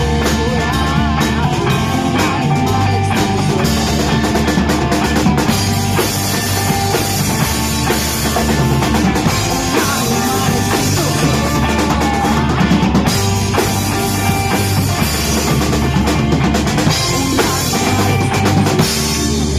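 Rock band playing live, an instrumental passage with no singing, driven by a drum kit.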